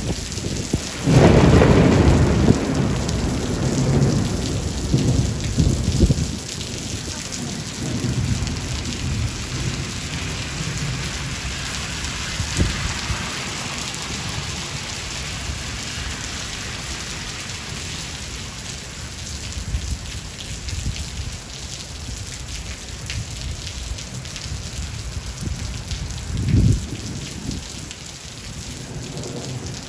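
Thunderstorm: steady heavy rain with rolling thunder. A loud low rumble of thunder comes about a second in and dies away over several seconds, a short sharp thunder crack comes near the end, and another rumble begins as it closes.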